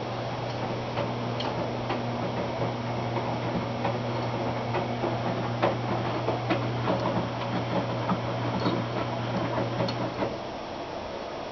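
Washing machine running: a steady motor hum with irregular clicks and knocks from the load tumbling in the drum. The hum stops about ten seconds in as the drum pauses in its cycle.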